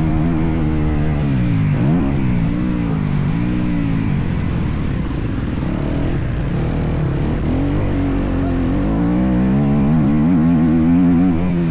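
Motocross bike engine revving up and down as it is ridden, its pitch climbing and dropping again and again with the throttle. Around the middle the engine note fades under a rough noise, then rises strongly again near the end.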